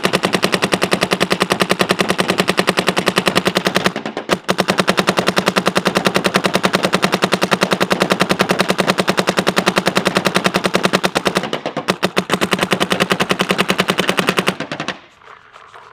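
Shocker ERA electropneumatic paintball marker firing a rapid, even stream of shots, emptying a pod of paint. The string breaks off briefly twice and stops about fifteen seconds in.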